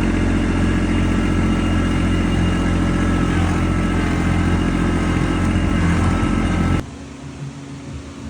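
Kubota LX2610 compact tractor's diesel engine running steadily at a constant speed. It cuts off suddenly about seven seconds in, leaving a fainter sound.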